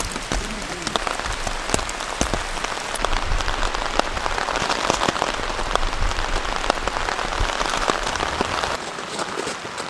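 Heavy rain falling, a dense steady hiss with many sharp individual drop hits; it steps down a little in loudness near the end.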